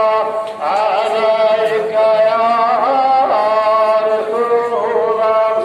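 A man chanting a devotional song, unaccompanied, in long, held, ornamented notes, with a short breath about half a second in.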